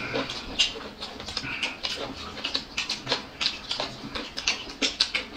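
Close-miked chewing and mouth smacking of people eating, an irregular run of quick sharp mouth clicks.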